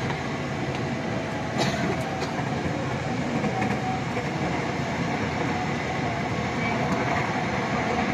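Passenger train running at speed, heard from on board: a steady rumble of wheels on rail with a sharp click about a second and a half in.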